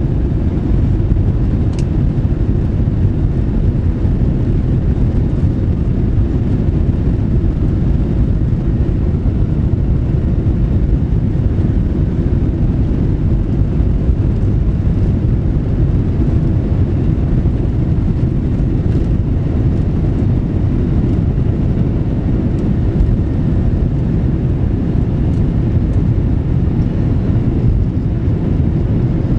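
Steady low rumble of a Boeing 737-700's CFM56 jet engines and airflow as heard from inside the passenger cabin, unchanging in level.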